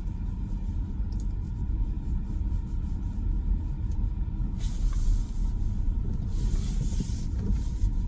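Low, steady rumble of a Tesla Model Y's tyres rolling slowly over packed snow, heard from inside the cabin, with no engine note. Two short stretches of hiss come about four and a half and six and a half seconds in.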